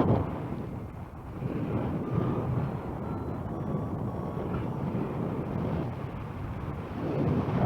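Wind rushing over the microphone in flight, gusting up and down, with a loud gust at the start and faint short beeps here and there.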